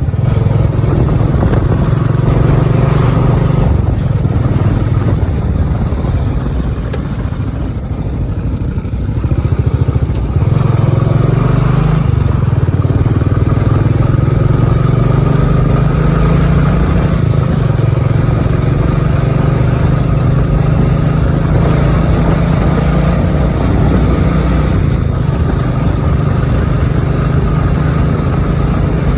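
Motorcycle running on the move, a steady low drone that eases off for a few seconds about six seconds in and picks back up about ten seconds in.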